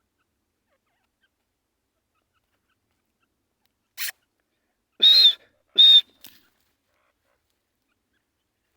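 Male grey francolin (teetar) calling: a short note about four seconds in, then two loud, shrill notes less than a second apart, and a faint short note just after.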